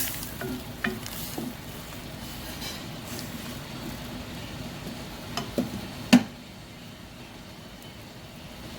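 Keng som soup boiling in a wok with a steady bubbling hiss, and a few clinks of a utensil against the pan, the loudest about six seconds in.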